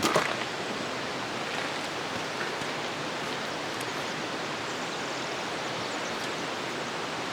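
Steady, even rushing noise of outdoor ambience, with a short click right at the start.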